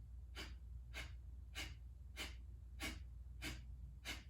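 Kapalabhati breathing: a steady run of short, sharp exhales forced out through the nostrils by the belly snapping back, about one and a half a second, with passive inhales between them.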